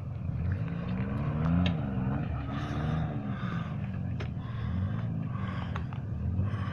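Off-road vehicle's engine revving up and down repeatedly under load, with scattered knocks and clunks.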